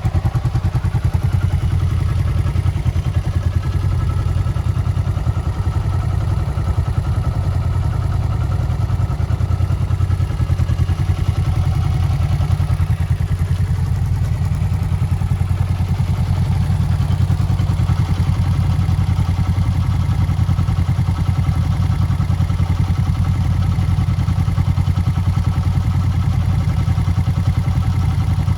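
SL motorcycle's kick-started engine idling steadily, running on after a cold start.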